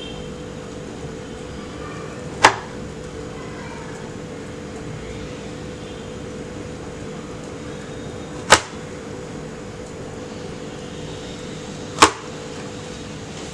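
Three sharp knife strokes on a cutting board, a few seconds apart, as chilled cookie dough is sliced, over the steady hum of a convection microwave preheating.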